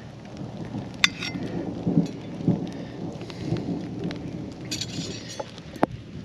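Steady rain falling, with low rumbles through it and a couple of sharp clicks, one about a second in and one near the end.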